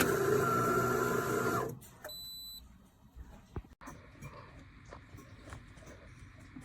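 De'Longhi Magnifica Start espresso machine running with a steady whine, stopping abruptly a little under two seconds in. A short high tone follows, then faint clicks.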